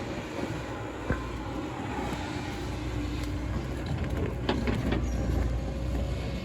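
Heavy diesel machine engine running steadily, its low rumble rising in the second half, with a few scattered knocks and clanks.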